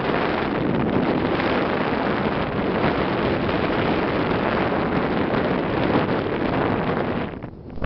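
Wind rushing over the microphone aboard a moving boat, with the boat's own noise underneath; it drops away briefly near the end.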